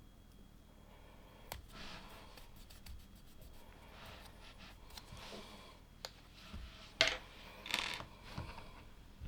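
LEGO plastic pieces being handled during a build: scattered small plastic clicks and light rustling and scraping, with the sharpest click about seven seconds in.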